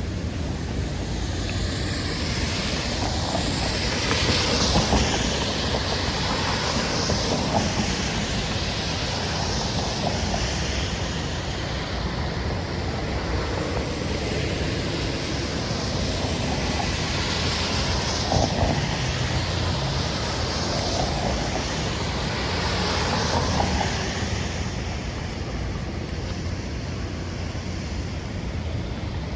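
City street traffic on wet roads: vehicles passing one after another, their tyre hiss swelling and fading several times over a steady wash of noise.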